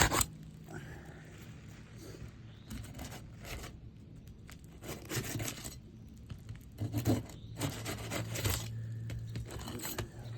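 Asphalt roof shingles being pried loose for removal: irregular scraping and tearing strokes with a few sharp clicks.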